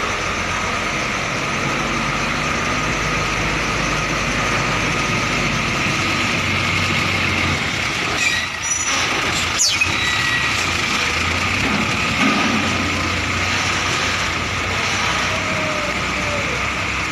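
Truck engine running steadily, with a few short sharp sounds about halfway through.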